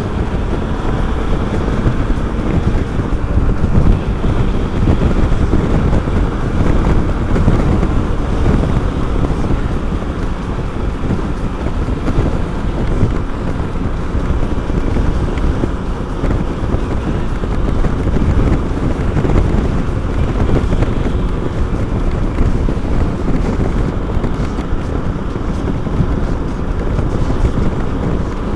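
Motorcycle riding along, with its engine running under steady wind noise buffeting the microphone.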